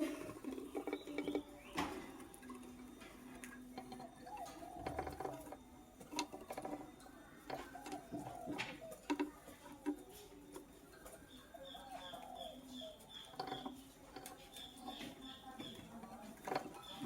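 Lovebird chirping in short runs of rapid, evenly repeated high notes, about five a second, with scattered sharp clicks and rustling throughout.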